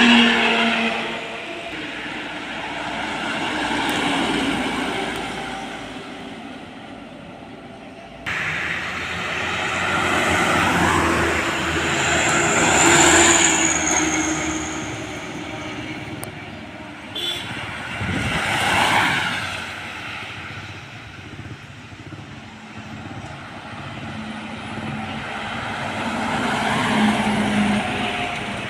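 Trucks and other road vehicles passing by one after another, each one swelling and fading away; an abrupt change about 8 seconds in.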